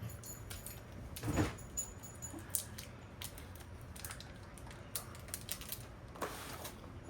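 Packaging of a small portion of cheese being opened by hand: a run of small crinkles and clicks, louder about a second in and again near the end.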